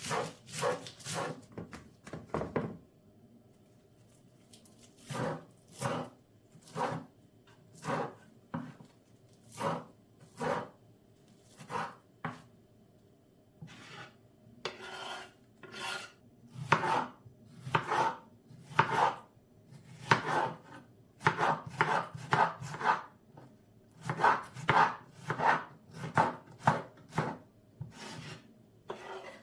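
Knife chopping food on a cutting board in a run of separate strokes. They come about one a second after a short pause near the start, then faster and in quick clusters through the second half.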